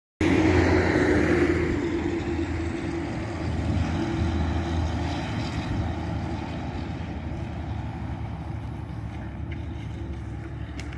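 Motor vehicle noise, a steady rumble that is loudest right at the start and slowly fades over the following seconds.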